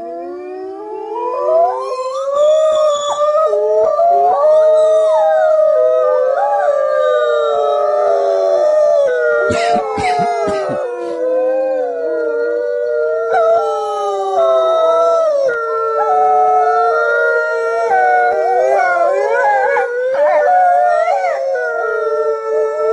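Several dogs howling together, their long, wavering howls overlapping at different pitches. There are a few sharp knocks about ten seconds in.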